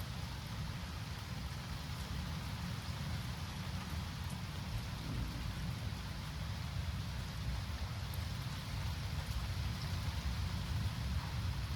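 Steady rain falling during a thunderstorm, an even hiss over a continuous low rumble.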